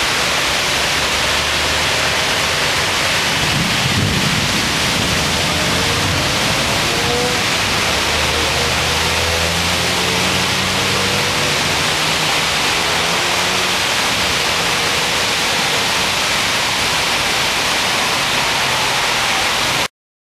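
Heavy tropical downpour hissing steadily, with the engine hum of traffic on the road below and a low rumble about four seconds in. It cuts off abruptly near the end.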